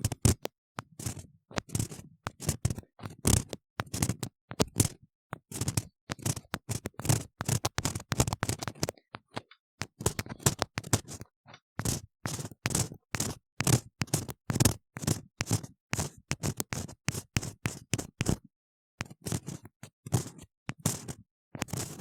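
An ear-cleaning tool scraping and scratching inside a silicone ear model, heard very close-up, in quick irregular strokes with short pauses about ten seconds in and near the end.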